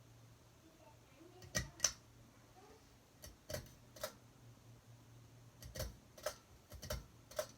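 A series of sharp clicks, about eight, mostly in close pairs, over a low steady hum.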